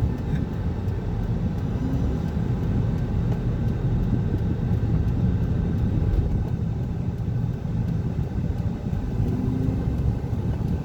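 Steady road and engine rumble inside a moving car's cabin at road speed.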